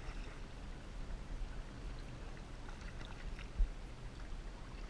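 Water splashing and trickling against a kayak over a steady low rumble, with faint scattered splashes and one dull thump about three and a half seconds in.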